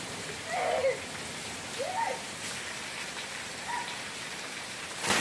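Heavy rain falling steadily, with water pouring off a roof edge and splashing onto the paving, heard as an even hiss. A few short, faint sliding calls sound over it.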